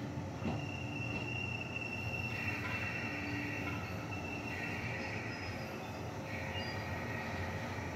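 JR West 381 series electric train rolling slowly into a station platform, its running gear rumbling low while high, steady squeals come from the wheels and brakes as it slows. One squeal starts about half a second in, and a second, lower squeal joins around two seconds in.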